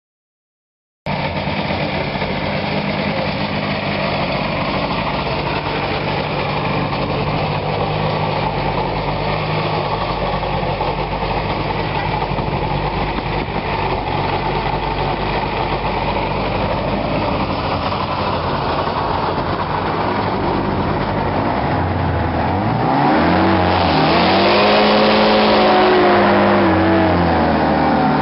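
Hovercraft engine and fan running steadily, then revving up about 23 seconds in, getting louder with its pitch rising and wavering as the engine speed goes up and down.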